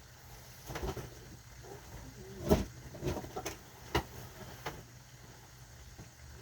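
A handful of knocks and clunks as kitchen items are moved about while rummaging for a jar of sauce, the loudest about two and a half seconds in and another sharp one a couple of seconds later.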